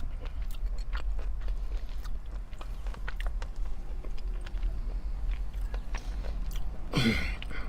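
Close chewing of sushi, a run of small wet mouth clicks over a steady low hum. About seven seconds in comes one short, louder sound that falls in pitch.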